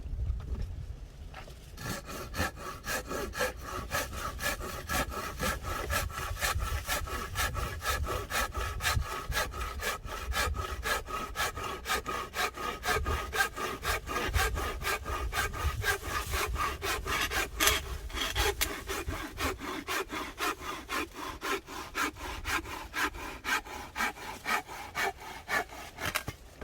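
Hand saw cutting through firewood in quick, even back-and-forth strokes, starting about two seconds in, with the blade ringing slightly.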